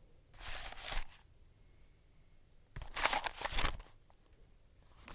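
Paper or cardboard packaging being torn open and rustled, in two bursts: a short one just under a second in and a longer one about three seconds in.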